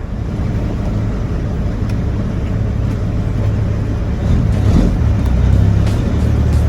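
Diesel engine of a semi truck running, heard inside the cab as a steady low rumble that grows louder about four and a half seconds in as the engine takes more throttle.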